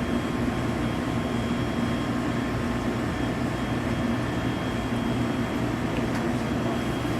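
A steady mechanical hum with a low drone and a faint high whine, unchanging throughout.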